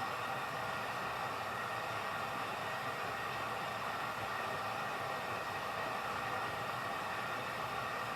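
Washing machine running: a steady rushing noise with a faint high whine.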